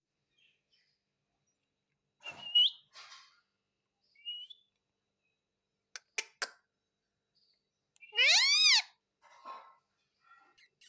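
Pet parrot calling: a few short chirps and rising squeaks, a few sharp clicks, then, about eight seconds in, one loud call that rises and falls in pitch.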